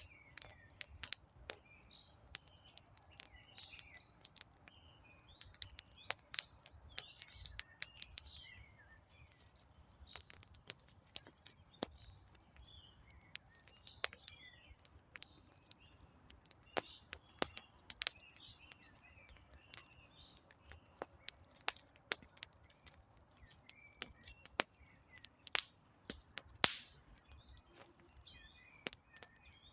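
Wood fire crackling with irregular sharp pops and snaps, over a low hiss of flame, while small birds chirp and twitter.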